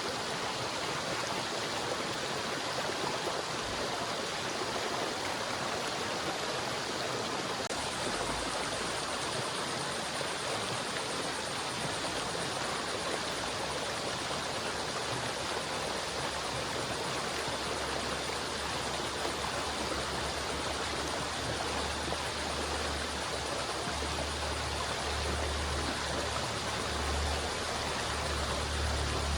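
River water flowing and splashing steadily, a continuous rushing with no breaks. A low rumble builds under it from about halfway through.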